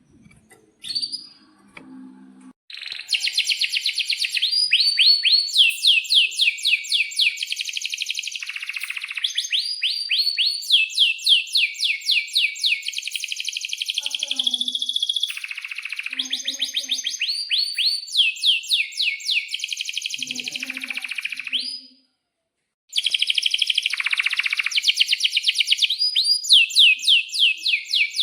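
Male domestic canary singing a long, loud song of rapid repeated trills and rising notes, with a brief break about three-quarters of the way through.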